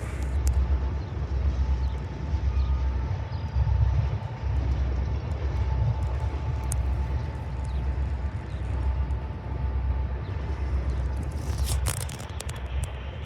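Low, uneven rumble of a Union Pacific train on a yard track, with a faint steady whine through the first two-thirds and a few light clicks near the end.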